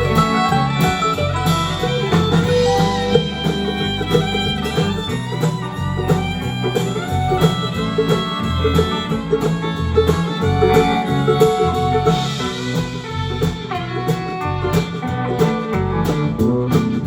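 Live country band playing an instrumental break: guitars and other plucked strings over bass and a steady beat, with no singing.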